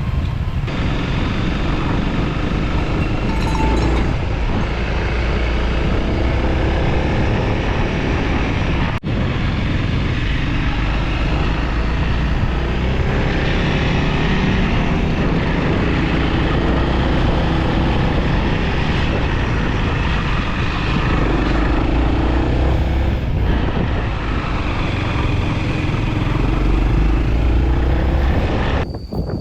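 Motorcycle being ridden on the road, its engine running with a steady rush of riding noise, dipping for an instant about nine seconds in.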